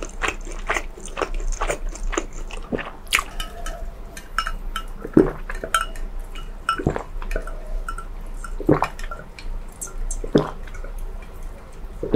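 Close-miked chewing of food, a steady run of small mouth clicks. From about five seconds in, a louder knock comes every second and a half or so.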